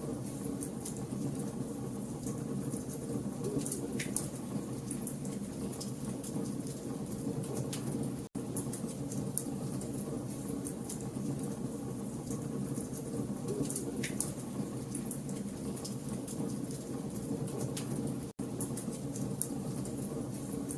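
Campfire of burning logs crackling: a steady low rush of flames with frequent sharp little pops and snaps, two louder pops about four and fourteen seconds in. The sound cuts out for an instant twice, about ten seconds apart.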